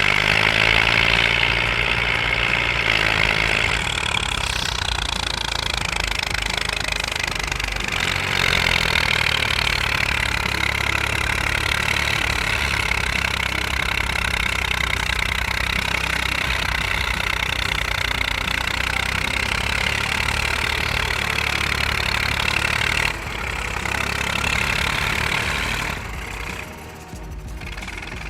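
Diesel engine of a heavy vehicle running steadily with loud mechanical clatter. The sound changes abruptly several times.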